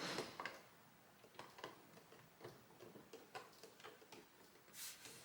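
Plastic LEGO pieces being handled and pressed back together: scattered small clicks and taps, a quick cluster of them at the start and a brief rustle near the end.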